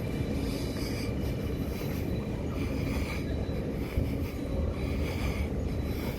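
Steady low rumble of a train, with short high-pitched wheel squeals recurring about once a second.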